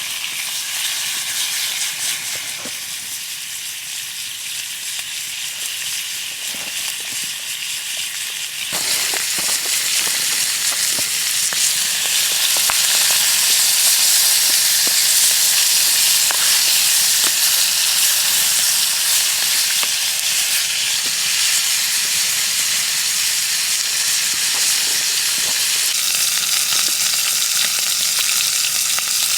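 Food sizzling over a campfire, a dense frying hiss scattered with fine crackles of burning wood. It steps up and grows louder about nine seconds in.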